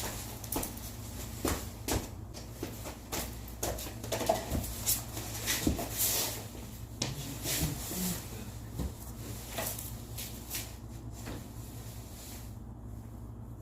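Irregular knocks and clatter of things being handled, over a steady low hum.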